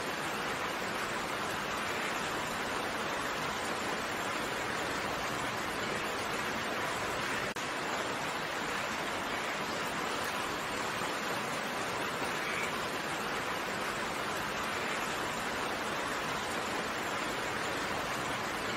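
Steady rain: an even hiss of falling drops with no thunder, dipping for an instant about seven and a half seconds in.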